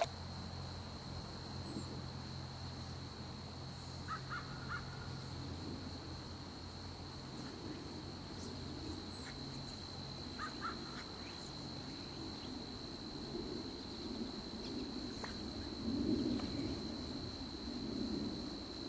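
Quiet riverside ambience with distant bird calls in short groups of two or three, about four seconds in and again about ten seconds in, over a faint steady high whine.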